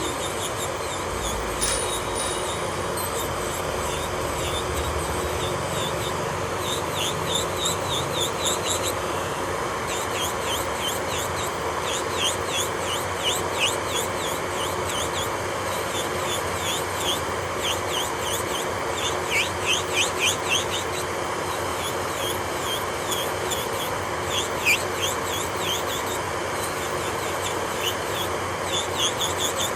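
Electric nail drill (e-file) running steadily while its bit grinds over the nail, with clusters of short, high squeaks as the bit rubs the surface.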